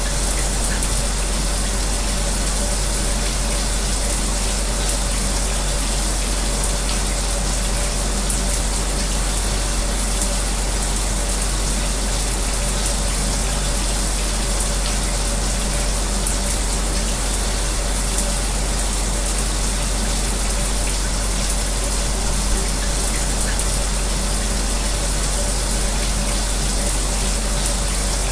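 Shower spray running steadily, with the even hum of an electric fan beneath it.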